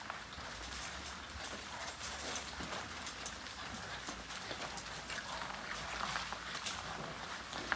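French bulldog puppies' claws and paws clicking on a hard floor: many small, irregular taps.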